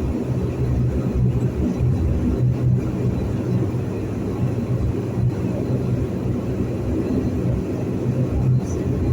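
De Havilland Dash 8-400's Pratt & Whitney PW150A turboprop engines running at taxi power, heard from inside the cabin as a steady low drone.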